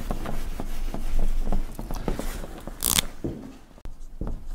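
Marker writing on a whiteboard: an irregular run of short scratchy strokes, with one sharp hiss about three seconds in.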